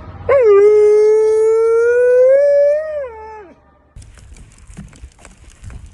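A dog howling: one long howl of about three seconds, its pitch creeping up slightly before falling away at the end, followed by faint clicks.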